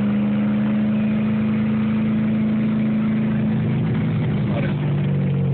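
Ford 5.0-litre V8 of a 1995 Mustang, heard from inside the cabin, cruising at steady revs with a steady drone. About four seconds in, the drone drops in pitch as the revs fall.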